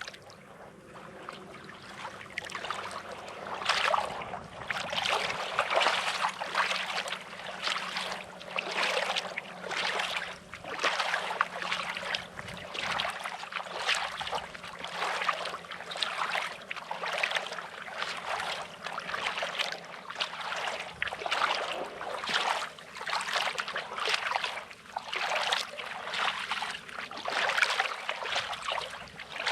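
Small sea waves lapping and washing on a rocky, sandy shore, in a steady run of splashy washes about one a second.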